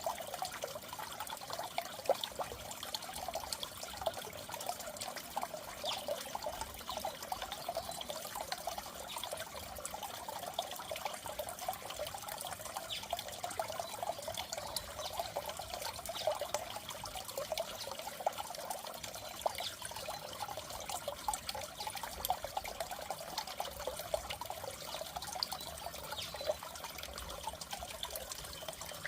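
Water in a goldfish aquarium trickling and bubbling steadily, a constant fine splashing with no pauses.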